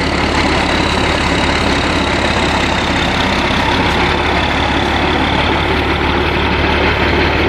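Heavy military diesel engines running steadily, with a faint high whine that slowly falls in pitch.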